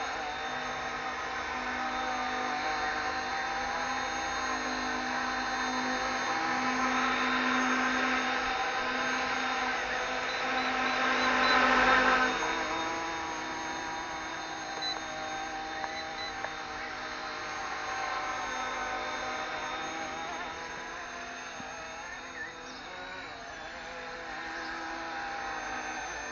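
RC ERA C189 MD500 scale RC helicopter in flight, its motor and rotor making a steady whine that wavers slightly in pitch. It grows louder toward about twelve seconds in and then fades again.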